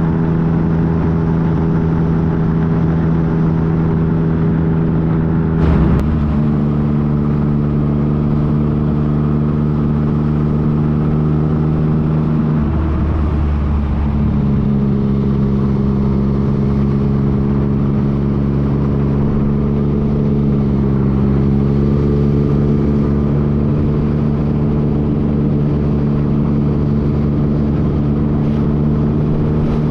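Yamaha FJ-09's inline three-cylinder engine running steadily while riding, its note shifting about six seconds in with a short click and changing again between twelve and fourteen seconds in.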